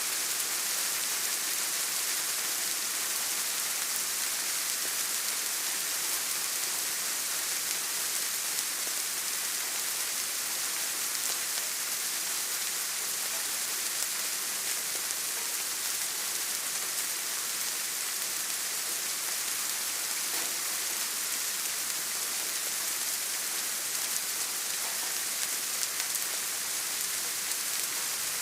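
Steady rain falling, an even hiss strongest in the highs, with scattered faint drop ticks.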